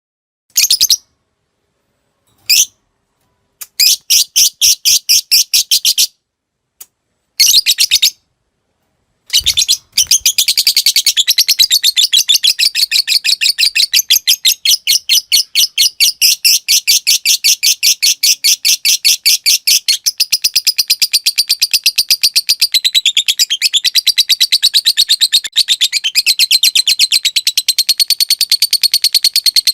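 Lovebird calling, first in short bursts of rapid, high-pitched chatter with silent gaps between them, then from about ten seconds in a long unbroken rapid chattering trill: the long 'ngekek' that fanciers train their birds to copy.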